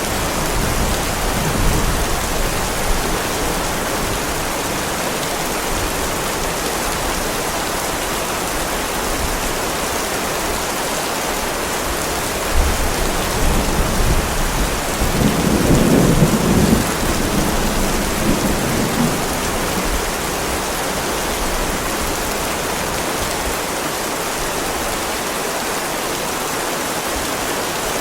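Heavy rain falling steadily on a driveway, a dense even hiss of drops. About halfway through, a low rumble of distant thunder swells for a few seconds and fades back under the rain.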